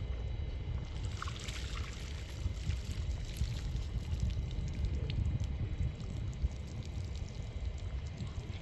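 Water pouring or splashing for a couple of seconds, starting about a second in, with a few small clicks, over a steady low rumble.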